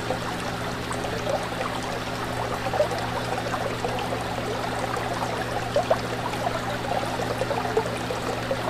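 Fish tank water bubbling and trickling continuously over a steady low hum.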